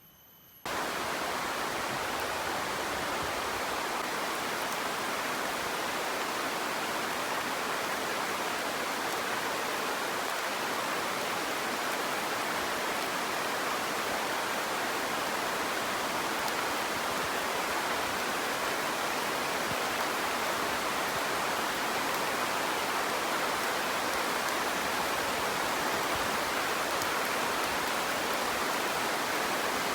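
Heavy rain falling steadily as a dense, even wash of noise, starting abruptly about a second in.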